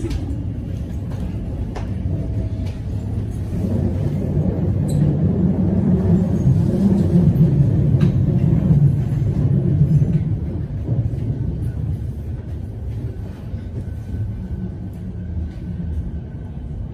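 Melbourne suburban electric train running with a low rumble that builds to its loudest about halfway through and then eases off.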